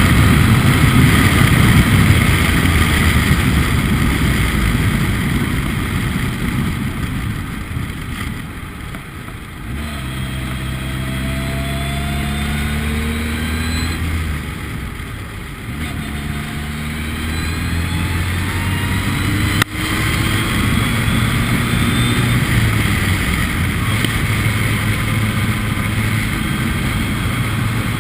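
Formula Ford race car engine running hard under heavy wind and road noise. It eases off twice, about nine and fifteen seconds in, then pulls back up, its pitch climbing in steps as it shifts up through the gears. A single sharp click comes about twenty seconds in.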